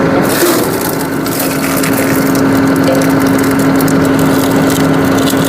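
Tractor engine running steadily to drive a tractor-mounted hydraulic log splitter, with irregular crackling and snapping from just after the start as a log is split.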